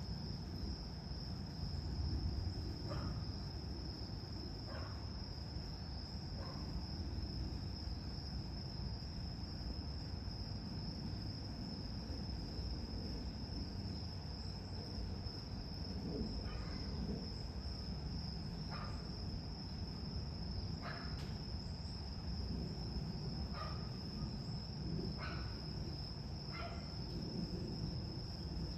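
Steady high-pitched drone of insects, with a continuous low rumble of a distant jet airliner underneath and about nine brief chirps scattered through.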